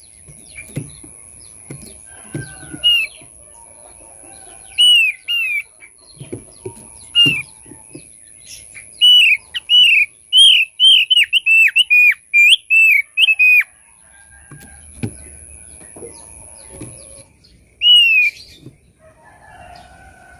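Thick-billed white-eye (opior paruh tebal) calling: loud, arched whistled notes, some single and some in pairs, with a quick run of about ten notes in the middle. There are low thumps in between and a faint steady high whine.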